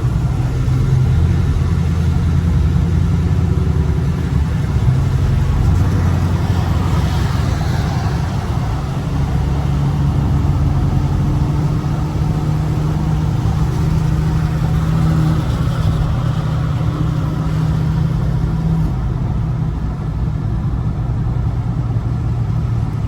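Dodge Scat Pack's 6.4-litre HEMI V8 running at a steady cruise, its low drone shifting in pitch a few times, over an even hiss of tyres on a rain-wet road.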